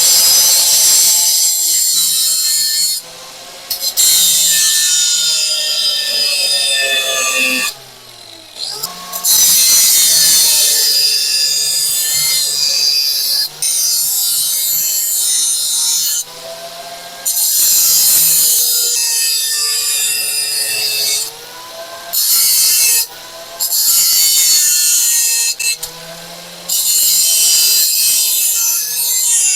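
Angle grinder grinding steel in repeated passes. Its motor pitch sags and recovers as the disc bites, and the grinding stops briefly several times between passes.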